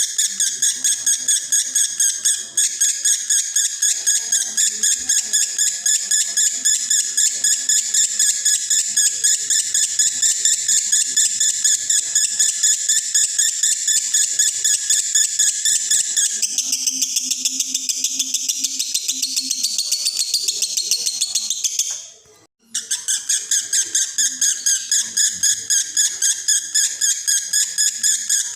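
Male lovebird in breeding condition singing a long, unbroken high-pitched chattering song ('konslet'), its rapid notes pulsing about four times a second. The song shifts in tone about two-thirds of the way through, stops briefly, then starts again.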